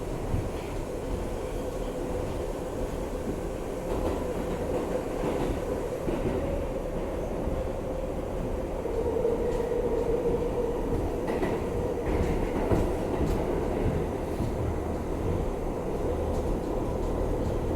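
R62A subway train running along the track: a steady rumble with a sustained whine that swells around the middle, and a few light clicks from the wheels.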